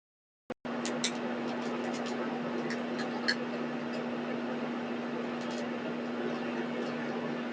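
A steady machine hum over constant hiss, with a few faint ticks. The sound drops out completely for about half a second just after the start.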